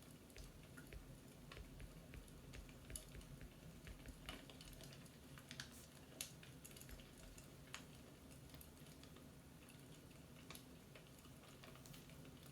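Faint wood fire crackling: irregular small pops and snaps, a few a second, over a low steady hum.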